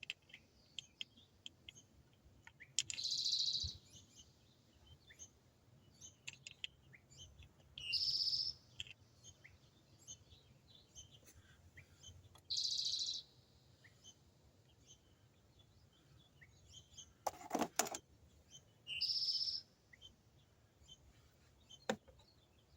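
A songbird repeating the same short high chirping phrase every four to five seconds. Between phrases there are faint scattered clicks, and there is one brief clatter about seventeen seconds in.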